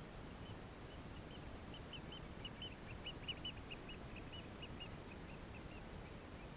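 A bird calling a long run of short, high notes, about four a second, loudest around the middle and fading toward the end, over a steady low hiss.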